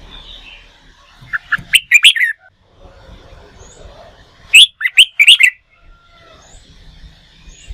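Red-whiskered bulbul singing: two bursts of short, loud, sweeping chirped notes, one about a second and a half in and another about four and a half seconds in.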